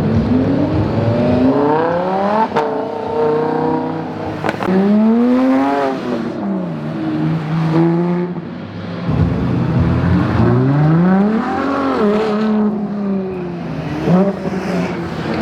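A performance car's engine revving hard, its pitch climbing and falling several times, with sharp cracks from the exhaust a couple of times.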